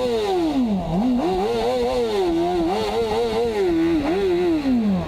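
Motorcycle engine revving as the bike rides off, the pitch dropping sharply in the first second, then climbing and rising and falling with the throttle before dropping away near the end.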